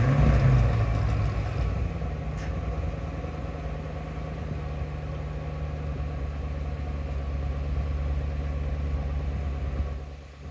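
2012 Chevrolet Camaro 45th Anniversary Edition engine catching on a cold start after sitting several days, flaring briefly as it fires, then settling into a steady idle. The sound falls away near the end.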